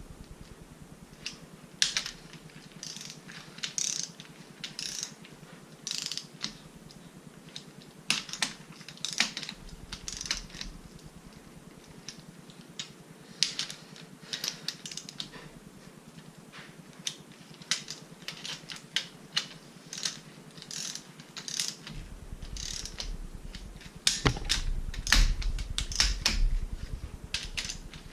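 Ratchet wrench clicking in short bursts of strokes as the end plate bolts on a 13B rotary engine are run down, with a busier, louder stretch near the end.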